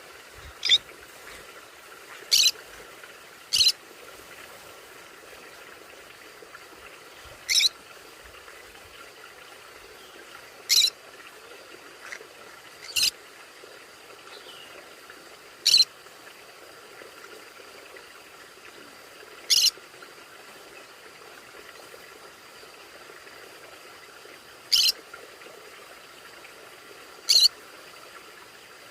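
Conure giving about ten short, sharp, high calls at irregular intervals, a few seconds apart, over a faint steady background hiss.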